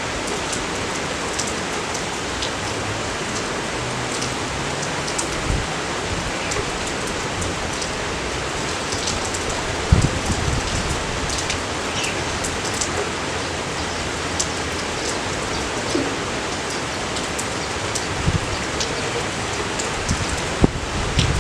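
Steady rain falling, with many scattered drop ticks and a few low thuds.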